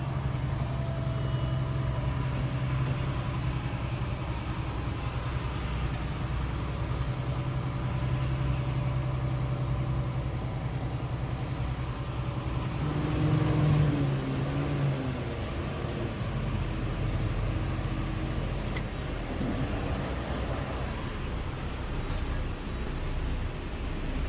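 Semi truck's diesel engine running steadily, with a brief rise in pitch and loudness about 13 seconds in.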